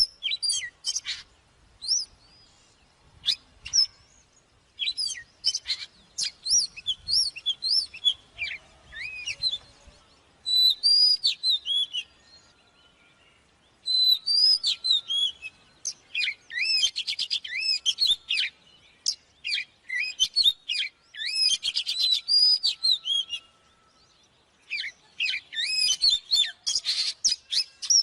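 Oriental magpie-robin singing: fast, varied runs of clear whistled notes, sweeps and chirps in phrases of several seconds, broken by two short pauses.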